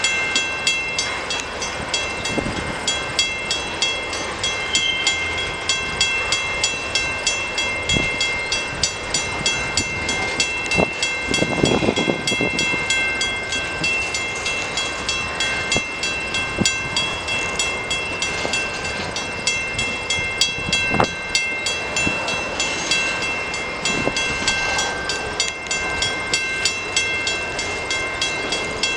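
Freight cars of a CN manifest train rolling past at low speed, their wheels clicking over the rail joints in a steady rhythm, with a heavier rumble about twelve seconds in.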